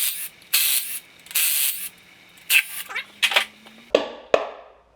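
A power tool running in short bursts, spinning out the water pump bolts on an engine block. Near the end come two sharp metal clanks.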